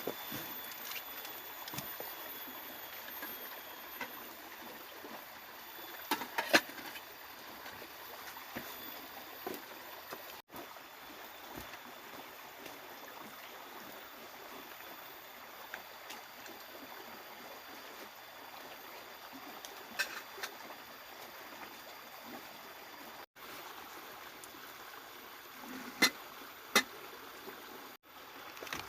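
Steady hiss of rushing water, with a few sharp knocks scattered through it; the loudest are two close together near the end. The sound drops out briefly three times at cuts.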